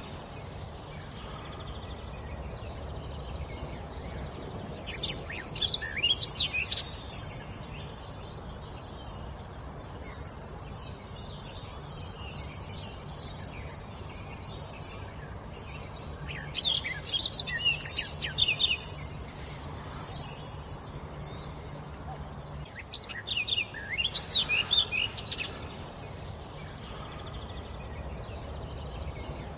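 A songbird singing in three short bursts of rapid, high chirping notes, each lasting two to three seconds, with pauses of several seconds between them.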